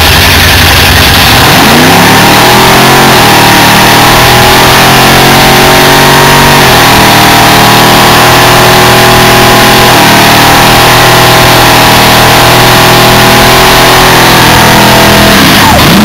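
A car engine revs up about two seconds in and is held at high revs for a burnout, very loud, with a small drop in pitch partway through; the revs fall away near the end.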